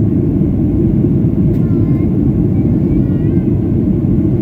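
Steady low roar inside the cabin of a Boeing 737-800 in its climb: CFM56-7B engine and airflow noise.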